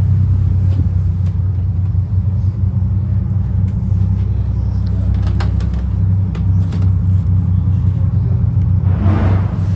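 Boat engines running steadily, a low, even drone, with a few light clicks in the middle and a brief rushing swell of noise near the end.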